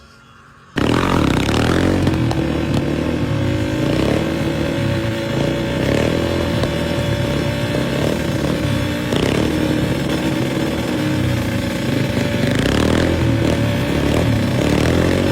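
Yamaha Raptor 700 ATV's single-cylinder engine running at fairly steady revs with small blips of throttle, cutting in abruptly under a second in.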